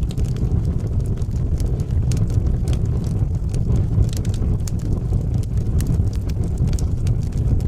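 Wood fire burning in a fireplace: a steady low rumble of flame with many irregular sharp crackles and pops from the burning logs.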